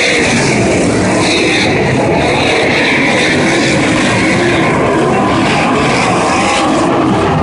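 Sprint cars' V8 engines running hard at racing speed, loud and continuous, their pitch rising and falling as the cars come past and go around the track.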